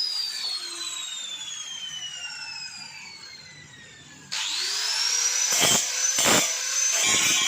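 Electric angle grinder winding down: a high whine falls steadily in pitch and fades. About four seconds in it is switched on again, whining up to speed and running steadily, with two sharp knocks and then the rough noise of the disc working the metal near the end.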